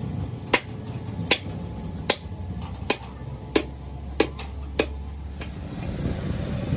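A row of sharp clicks or taps, about one every three-quarters of a second, eight in all, over a low steady hum.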